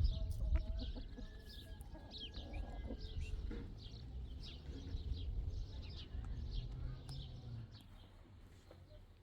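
Birds chirping repeatedly in short high notes, over a low rumble that is loudest at the start and fades away.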